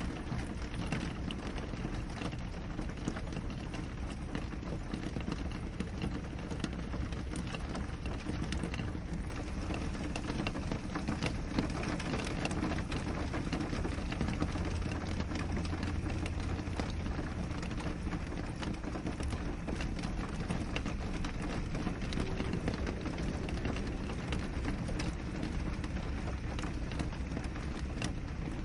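Steady rain on a window pane: an even hiss with many separate drops tapping against the glass.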